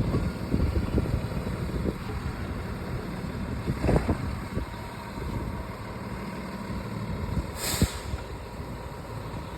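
Garbage truck's diesel engine running steadily, with a couple of sharp knocks about four and eight seconds in. A short burst of air hiss comes just before the second knock.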